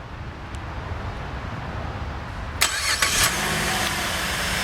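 2008 Chevrolet Malibu LTZ's 3.6-litre V6 starting from the key fob: a brief crank that catches about two and a half seconds in, then settling into a steady idle.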